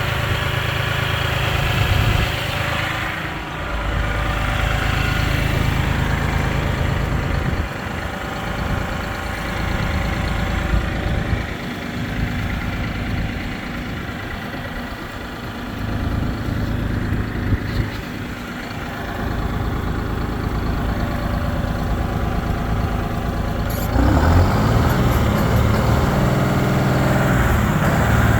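Case IH Farmall 55A tractor's diesel engine running steadily, its level rising and falling. It gets louder and rougher about three-quarters of the way through.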